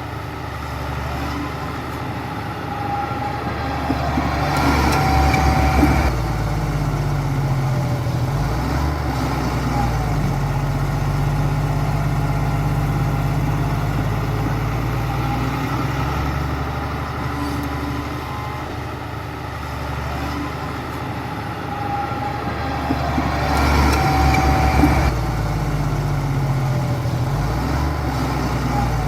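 Bulldozer's diesel engine running steadily under work, swelling louder twice for a couple of seconds at a time.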